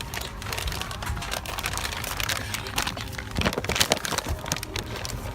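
Airliner cabin during boarding: a steady low hum under irregular rustling and clicking close to the microphone, with a cluster of louder knocks a little past halfway.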